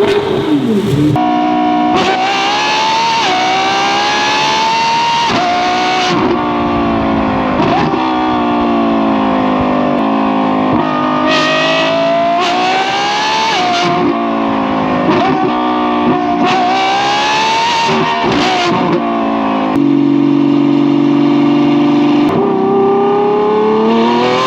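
Lamborghini Revuelto's V12 engine through a straight-through F1 race exhaust, accelerating hard through the gears. The pitch climbs and drops sharply at each upshift, about half a dozen times. Near the end it holds steady for a couple of seconds, then climbs again.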